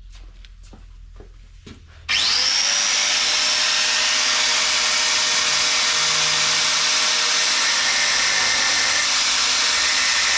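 A few light knocks, then an angle grinder starts abruptly about two seconds in and runs steadily, loud, grinding against the welds of a steel chassis plate.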